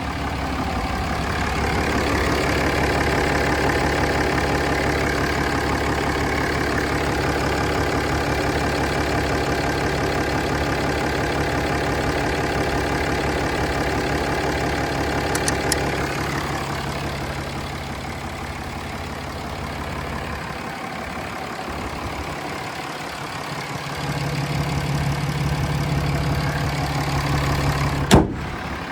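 A 2016 Ram 2500's 6.7-litre Cummins turbo-diesel inline-six idling steadily, its tone thinning a little past halfway. A single sharp knock sounds near the end.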